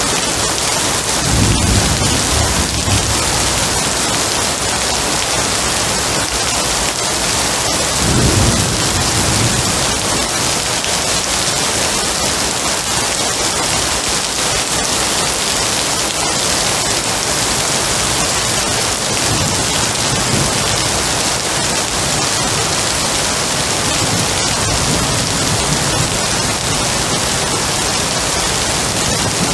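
Heavy, steady rain with thunder rumbling: a low roll about a second and a half in, another about eight seconds in, and fainter rumbles later on.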